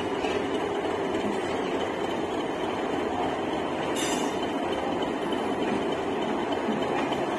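Steady rail noise of a train, an even rumble and hiss with no distinct wheel-on-joint beat, and a brief sharp click about four seconds in.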